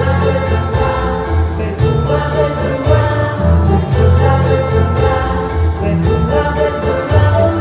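A Christian children's worship song playing: singing voices over a backing track with a steady beat and a moving bass line.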